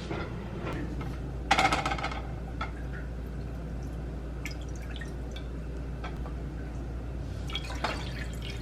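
Water running and dripping into a cup or pot while measuring it out, with a brief clatter about one and a half seconds in.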